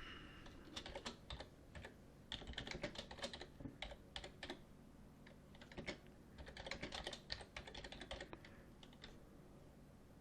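Faint typing on a computer keyboard, in several short runs of keystrokes separated by pauses.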